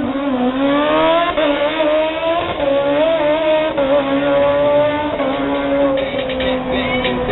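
A drag-racing sportbike's engine accelerating hard down the strip from the launch. Its pitch climbs and drops back at each of several upshifts.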